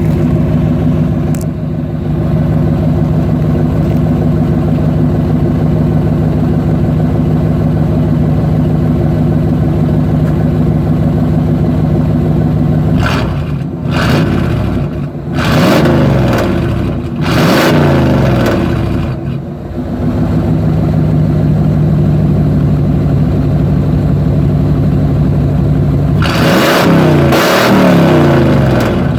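Pickup truck engine through a straight-piped exhaust with no muffler: idling steadily, then revved several times about halfway through, settling back to idle, and revved again near the end.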